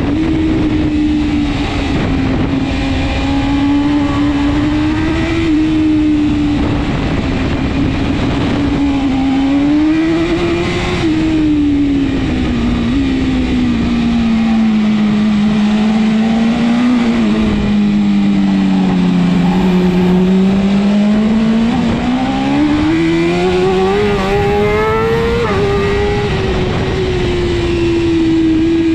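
BMW S1000RR superbike's inline-four engine at race pace, its note rising and falling as it is ridden through gears and corners, with small sudden steps in pitch at the gear changes. The note sinks lowest about two-thirds of the way through, then climbs steadily again before levelling off near the end.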